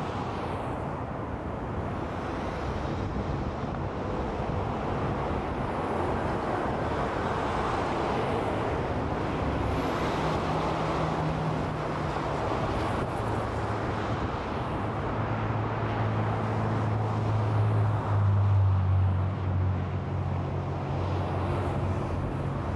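Steady rush of freeway traffic, tyres of passing cars coming and going. A heavy vehicle's low engine drone builds through the second half and is loudest about three quarters of the way in.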